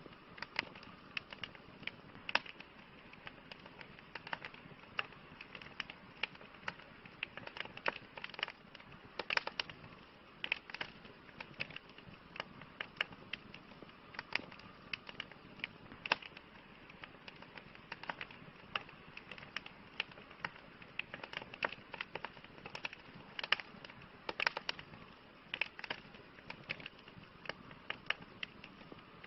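Campfire burning, the wood crackling and popping in irregular sharp snaps over a soft steady hiss.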